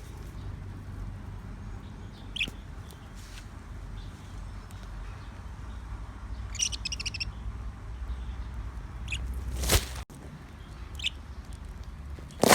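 Budgerigars giving short, high chirps now and then, with one quick run of chirps about halfway through. Two loud knocks, one near the end, stand out over a low rumble.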